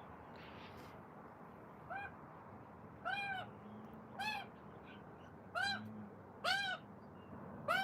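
A bird calling repeatedly: six short, clear calls, each rising then falling in pitch, about one a second.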